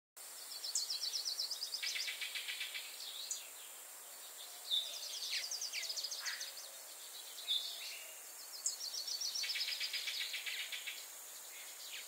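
Birdsong: a bird sings the same song three times, about every four seconds, each a fast high trill that drops into a lower trill, with short chirps from other birds in between.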